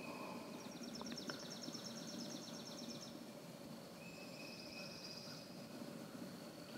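Faint bird calls in a spring field: a rapid, high-pitched trill lasting about two and a half seconds, starting just under a second in, and a shorter trill around five seconds in, with a few thin held whistles over a low steady background hush.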